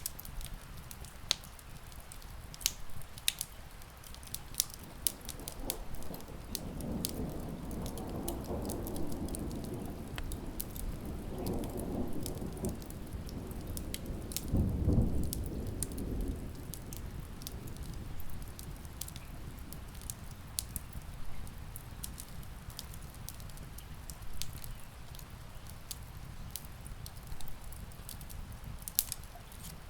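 Wood fire crackling with sharp pops over steady rain. A roll of distant thunder rumbles in about six seconds in, swells to its loudest near the middle and fades away.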